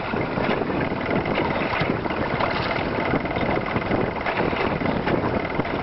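Boat outboard motor running steadily at trolling speed, with wind noise on the microphone.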